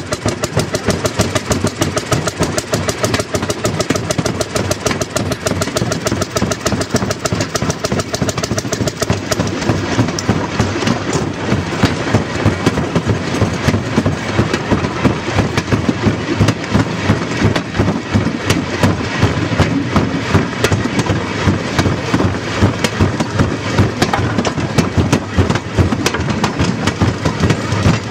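Small engine of a railroad speeder (track motor car) running steadily, its firing strokes coming as a rapid, even beat. Its note shifts lower about ten seconds in.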